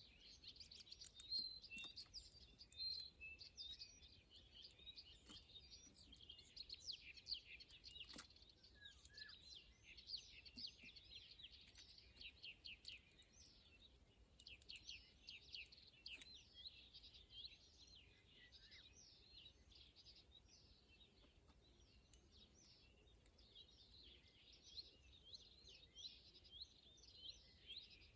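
Faint chorus of small songbirds, many short, quick chirps and twitters overlapping without a break.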